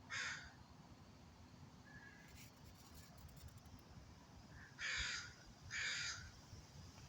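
A bird calling three times, with loud, rough calls of about half a second each: one at the very start and two in quick succession about five seconds in.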